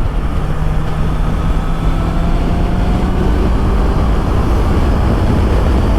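Honda CB650R's inline-four engine running at a steady note under way, mixed with wind and road noise as heard from a microphone in the rider's helmet.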